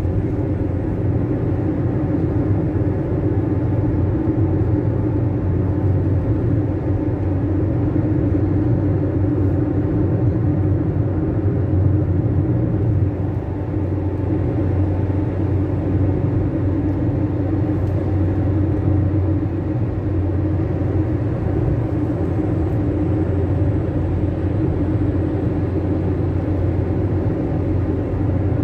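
Fiat Fiorino 1.4 van's four-cylinder engine and road noise heard from inside the cabin while cruising: a steady drone with a low hum.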